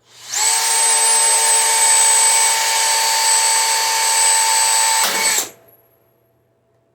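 Electric drill motor running at one steady speed with a high whine for about five seconds, then released and spinning down.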